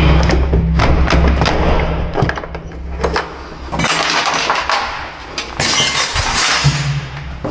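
Door-lock removal: sharp knocks and metal clinks of hand tools on the lock, with two bursts of scraping, rattling noise partway through.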